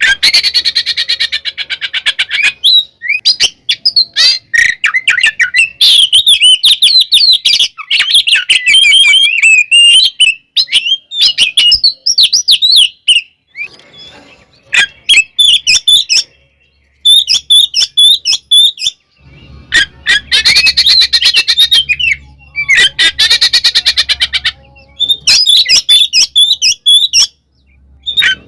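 Oriental magpie-robin singing a loud, varied fighting song: fast rattling chatters alternating with quick whistled and chirped phrases, with short pauses between bursts.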